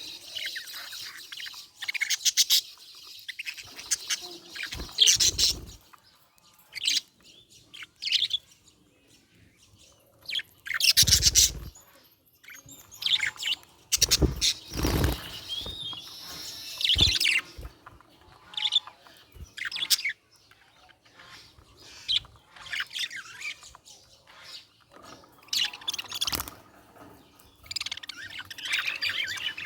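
Budgerigars chirping and chattering in irregular bursts of high, warbling calls, with a few dull thumps in between.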